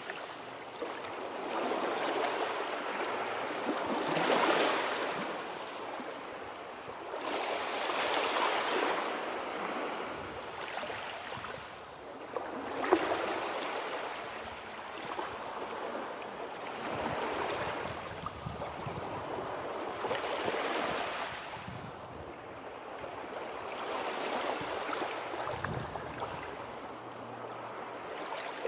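Sea waves breaking and washing on a shore, the surf swelling and falling back every four seconds or so.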